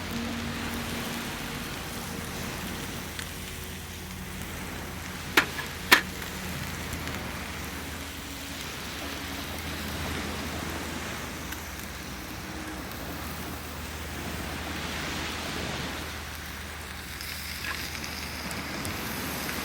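Campfire burning with a steady hiss and crackle, and two sharp snaps about five and six seconds in.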